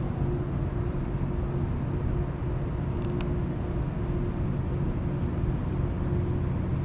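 Steady low motor drone with a constant hum, and two faint clicks about three seconds in.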